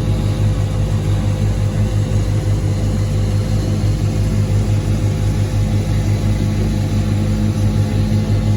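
Diesel tractor engine running steadily with a deep, even drone.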